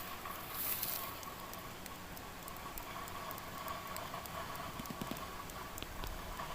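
Steady patter of falling water spray, with scattered light ticks.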